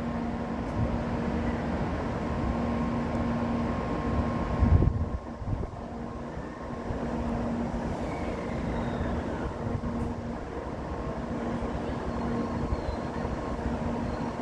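Shinkansen station platform ambience: a steady rumble and hum of railway noise, with a brief low thump about five seconds in.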